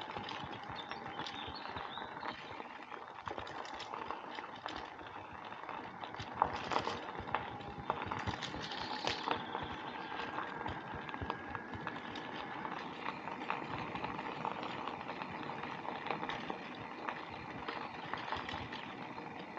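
Bicycle rolling along a rough path: steady tyre noise with many scattered small clicks and rattles from the bike.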